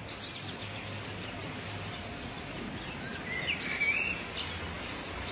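Outdoor background noise with birds chirping: several short high chirps, and a louder wavering whistled call about three and a half seconds in.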